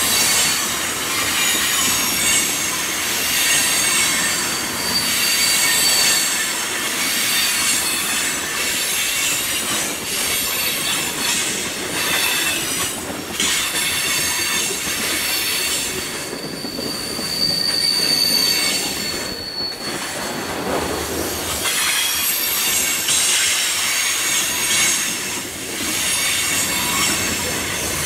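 Loaded freight cars rolling past close by, steel wheels clacking on the rails, with a high, steady wheel squeal that is loudest around the middle.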